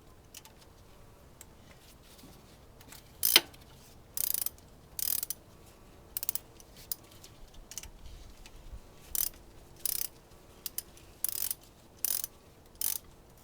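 Ratchet wrench clicking in short runs, about ten back-strokes roughly a second apart starting about three seconds in, as a fuel rail bolt is run in on the engine.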